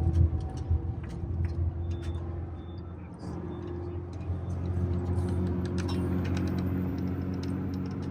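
Diesel motorhome engine running steadily under load on a climb. It dips briefly about three seconds in, then runs a little louder, with a few light clicks and taps over it. The engine is running hot because its hydraulically driven radiator fan is not spinning fast enough.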